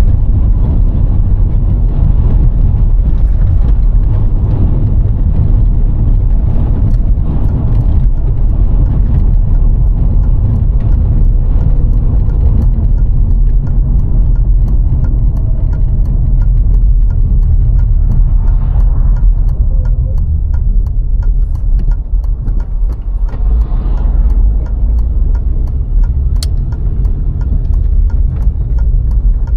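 VW Golf IV 1.6 on the move: a steady, loud low rumble of engine and road noise, with frequent small ticks and knocks throughout.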